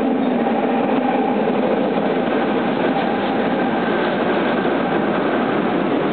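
Fukuoka Subway Nanakuma Line 3000 series linear-motor train running at speed through the tunnel, heard from inside the car: a steady, even rumble of wheels on rail and tunnel noise.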